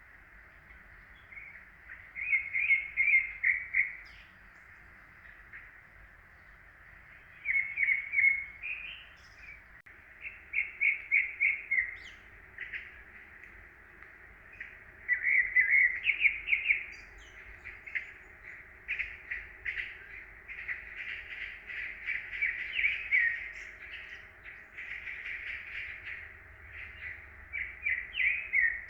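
Songbirds singing: short phrases of rapid chirps come every few seconds, then run nearly continuously through the second half.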